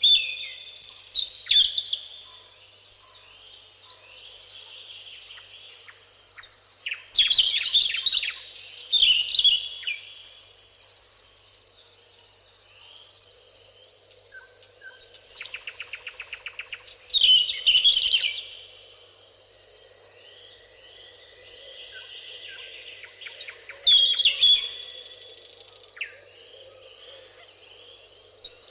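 Songbirds singing: one nearby bird gives four loud, rapid song phrases several seconds apart, over a background of fainter chirps and calls from other birds.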